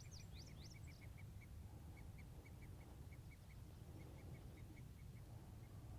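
Faint birdsong: a few quick sweeping chirps in the first second, then a bird repeating one short note in a rapid run that thins out near the end, over a low rumble.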